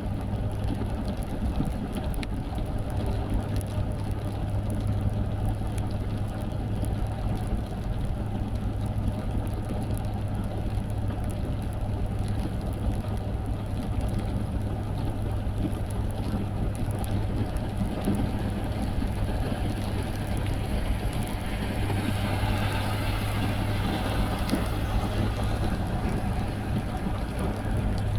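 Car driving on a wet road in the rain: a steady low drone of engine and tyres. From about 21 to 26 seconds in, a louder hiss of spray rises over it.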